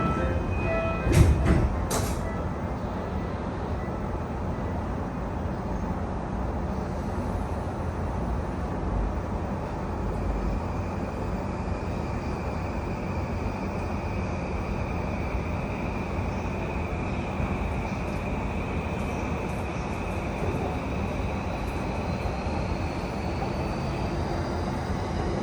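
Train running noise inside an E235 series Yamanote Line car: a steady low rumble of wheels on rail with the high whine of its SiC VVVF inverter, held steady for a long stretch, then a faint tone climbing slowly near the end. A few sharp clacks sound about a second in.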